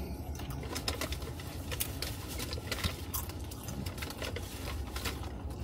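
Chewing and many small irregular clicks and crackles of eating from takeout bowls, over a steady low hum inside a car cabin.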